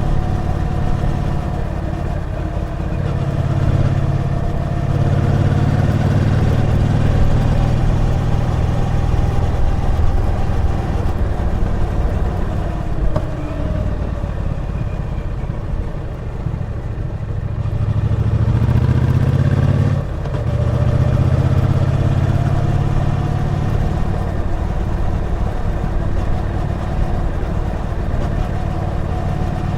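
Triumph Bonneville T120's 1200 cc parallel-twin engine pulling under way on a ride. The revs rise and fall with the throttle, with a sudden drop in revs and loudness about twenty seconds in.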